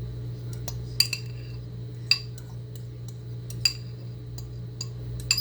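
A spoon clinking against a bowl while corn is spooned in, with several sharp clinks about a second apart, each ringing briefly. A steady low hum runs underneath.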